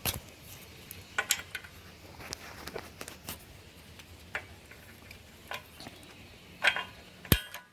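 Steel implement pins on a John Deere 1023E tractor being worked loose and set into their holder: scattered metal clinks and taps, with a sharp knock at the start and a louder one near the end.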